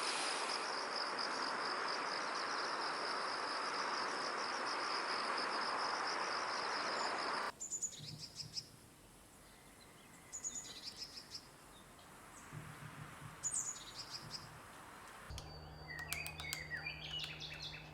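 A steady, pulsing insect trill for the first seven seconds or so, then a sudden cut to scattered short, high bird chirps and calls. Near the end a low steady hum sits under a quicker run of chirps.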